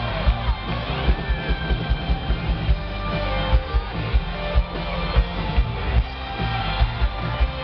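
Live rock band playing an instrumental passage: strummed electric guitar over a heavy drum beat.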